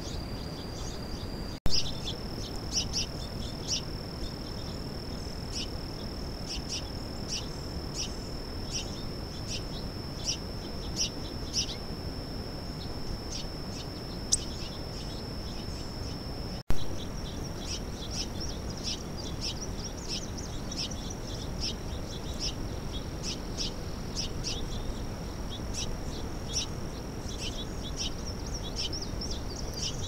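Small birds chirping in many short calls, over a steady high-pitched whine. Two sharp clicks where the recording cuts, about one and a half seconds in and near the middle.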